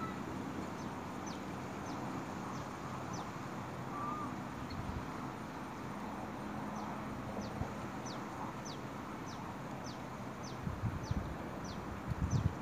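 A bird repeats a short, high, falling chirp about twice a second, most steadily in the second half, over a steady background hiss. There are a few low rumbles near the end.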